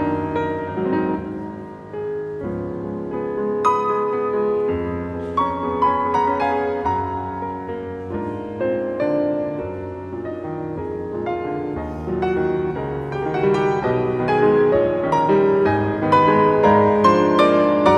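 Solo piano playing classical music, a steady flow of notes that grows louder in the last few seconds.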